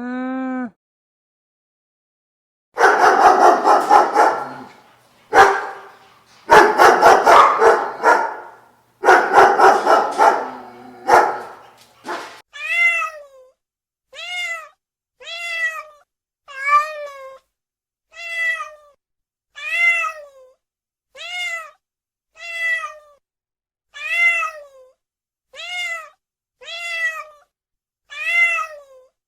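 A dog barking and growling in rapid loud bursts for several seconds. Then a cat meows over and over, one short falling meow about every second and a half, a dozen times.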